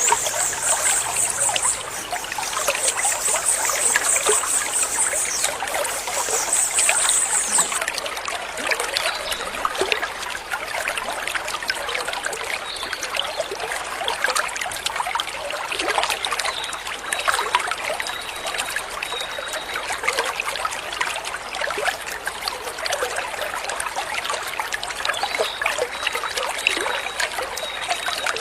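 Stream water trickling and splashing steadily. A high, pulsing trill sits over it for the first eight seconds or so, and a faint thin high tone runs through the later part.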